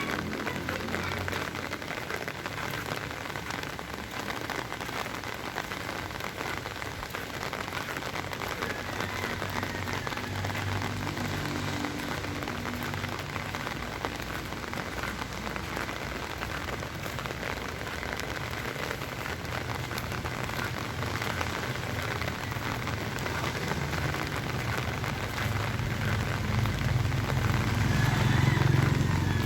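Heavy rain falling and splattering on surfaces in a steady, even hiss. A low rumble builds and grows louder near the end.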